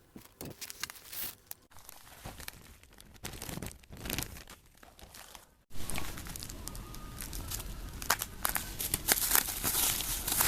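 Packaging being handled and opened: plastic crinkling and tearing, with scattered short clicks. About halfway through, a cut brings in a louder steady background hiss under denser rustling.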